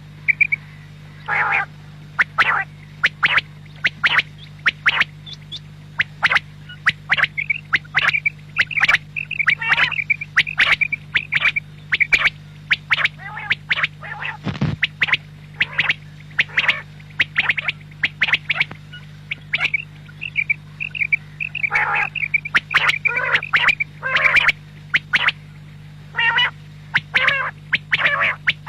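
Quail (batair) calling: many short, sharp calls in quick, irregular succession over a steady low hum.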